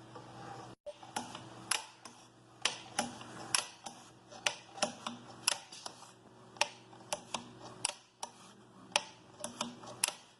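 Sharp clicks and taps from an espresso grinder being handled, at an irregular pace of about two or three a second, over a faint steady hum that stops near the end.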